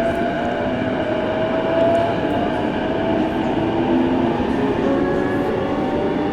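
Electric commuter train running, heard from inside the carriage: steady rail and running noise with a motor whine that rises slowly in pitch as the train picks up speed.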